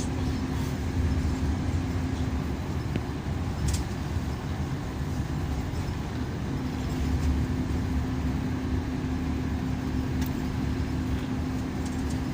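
Cabin sound of a Scania K340EB coach with Irizar PB body under way: steady low engine drone and road rumble, with a steady hum that drops out for about two seconds midway. A couple of faint ticks are heard.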